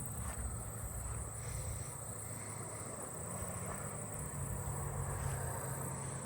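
Crickets calling in a steady high-pitched trill, which the listener takes for handsome trigs, one of them seemingly close; a low hum, likely distant traffic, lies underneath.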